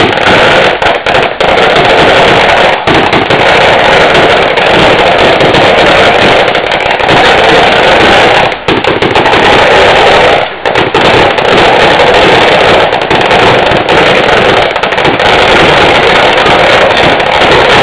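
Fireworks going off: a dense, continuous crackle of firecrackers in rapid succession, very loud, easing off only briefly twice.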